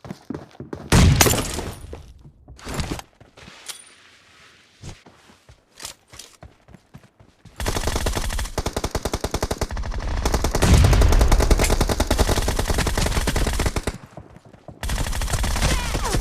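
Video game gunfire: a few scattered single shots and impacts, then a long burst of rapid automatic fire starting about halfway through, a brief break, and another burst near the end.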